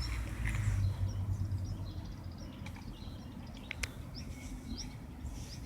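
Birds chirping in short, high calls a few times over a low rumble that fades in the first second or two, with a couple of sharp clicks midway.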